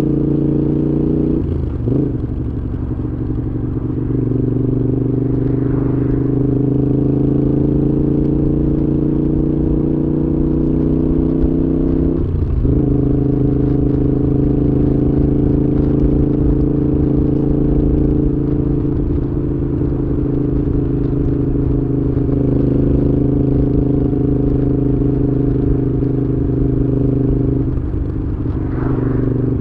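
Moto Guzzi V7's air-cooled transverse V-twin running through a Mistral aftermarket exhaust while riding. The note climbs slowly and breaks briefly three times, about two seconds in, near the middle and near the end, as the rider changes gear.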